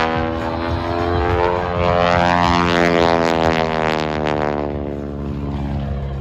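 Stearman biplane with a 450 hp Pratt & Whitney R-985 nine-cylinder radial engine flying a display pass. The engine drone shifts in pitch as the plane goes by and fades toward the end.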